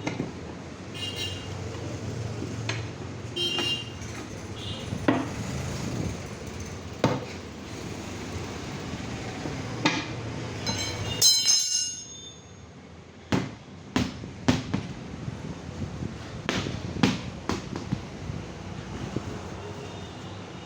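Irregular sharp metal knocks and clanks of hand tools at work on a motorcycle tyre and wheel, with a short ringing, hissing scrape about eleven seconds in, over a steady low rumble.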